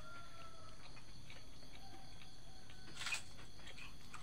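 Steady high-pitched chirring of insects in the background, with one short sharp tap about three seconds in.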